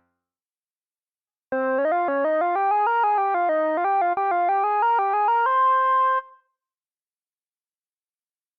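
GForce Minimonsta 2 software Minimoog emulation playing a preset. It starts about a second and a half in with a fast run of short notes, about five a second, rising and falling. The run ends on one held higher note that stops sharply about two and a half seconds before the end.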